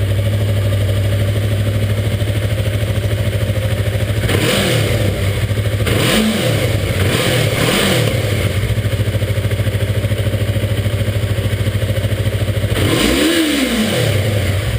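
2015 Yamaha R3's 321 cc parallel-twin engine idling through its stock exhaust and silencer just after a cold start. The throttle is blipped three times in quick succession a few seconds in, then once more, longer, near the end, the revs rising and falling back to idle each time.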